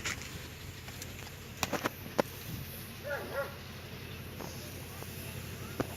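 A goat's short, wavering bleat about three seconds in, among a few sharp knocks, over a steady low hum.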